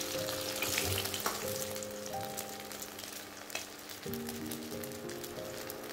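Pork belly frying in hot oil in an iron pan, sizzling with fine crackling pops as its fat renders out toward crisp.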